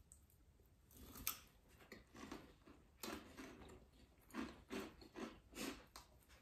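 Hot Cheetos being chewed close to the microphone: a run of quick crunches, about three a second, growing steadier and louder in the second half.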